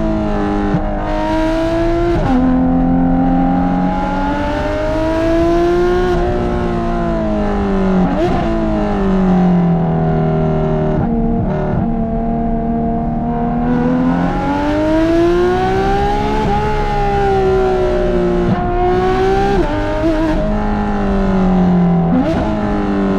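Porsche 991.2 GT3 RS's naturally aspirated 4.0-litre flat-six, fitted with Dundon street headers and a "Cats on Crack" exhaust, pulling hard as it is driven. Its pitch climbs and falls several times, with short sharp breaks where it shifts gear.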